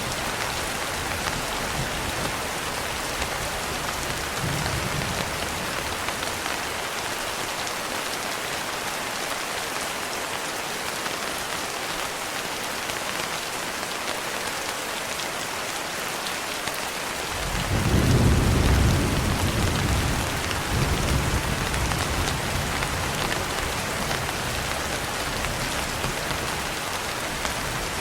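Steady heavy rain pattering down, with a deep roll of thunder that swells up about two-thirds of the way through and slowly dies away, and fainter low rumbles before and after it.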